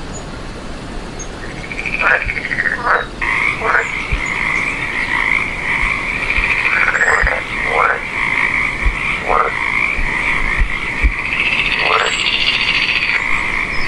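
A chorus of frogs calling: a continuous pulsing trill, with several short calls sliding down in pitch scattered over it.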